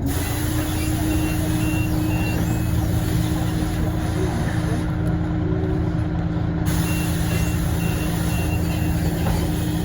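Scania OmniLink city bus's diesel engine pulling at a steady, held pitch through its ZF automatic gearbox. The pitch rises into place at the start and starts to fall right at the end. Twice a short run of high beeps sounds over it.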